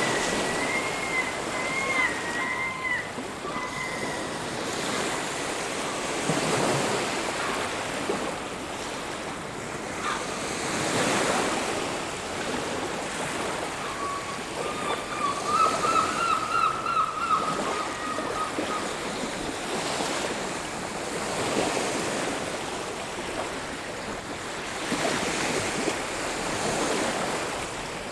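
Ocean surf washing ashore, waves swelling and breaking every few seconds, with a bird's wavering call in the first few seconds and again in the middle.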